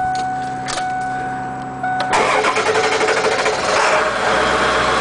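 A steady electronic tone for about two seconds, then the 7.3 L Power Stroke turbo-diesel V8 of a 2000 Ford E450 cranks and starts right up, running loudly after a short crank, after the bus has sat for about a week and a half.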